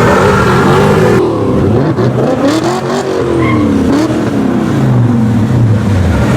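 V8 sports car with an aftermarket exhaust being revved while standing: the engine note climbs and falls in several quick blips, then settles back to idle near the end.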